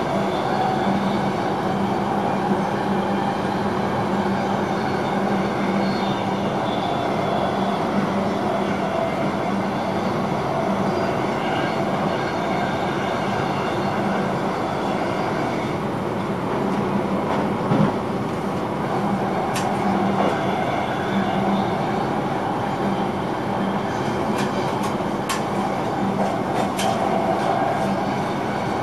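An NS intercity train running at speed, heard inside the driver's cab: a steady rumble of wheels on rails with a low constant hum. A few sharp clicks come in the second half, scattered and then several close together near the end.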